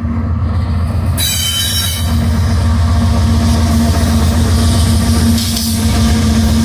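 Mid-train Union Pacific diesel locomotives passing close by in a double-stack container train: heavy engine drone and rumble that grows louder about two seconds in as the units come alongside. A brief high-pitched squeal comes about a second in.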